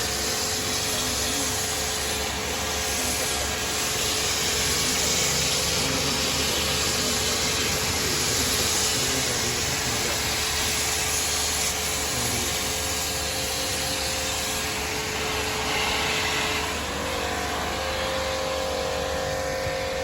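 Toyota Corolla GLI's engine running steadily, with a hissing rush of air over it. About three-quarters of the way through, a second, higher steady whine joins in.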